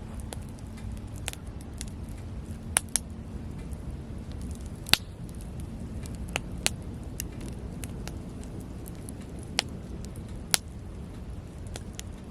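Wood campfire crackling: irregular sharp pops and snaps over a low steady rumble, the loudest pop about five seconds in.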